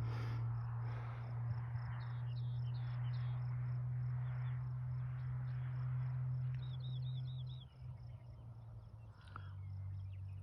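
Insects chirping outdoors: a steady high chirp about three times a second, with short runs of quicker chirps every few seconds, over a steady low hum.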